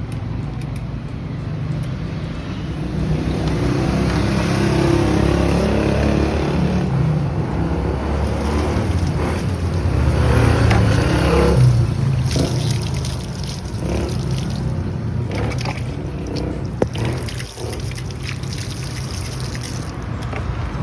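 Low rumble of street traffic, swelling twice as vehicles pass, with scattered light clicks and knocks.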